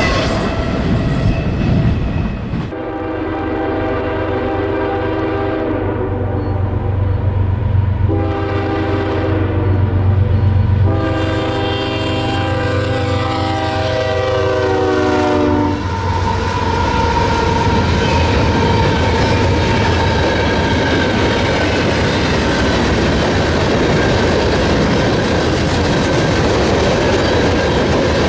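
Diesel freight locomotive sounding its chime horn in three blasts: a long one, a shorter one, then a long one that drops in pitch as the engine goes by, over the steady low drone of the engine. After that, the train rolls past with steady wheel and rail noise.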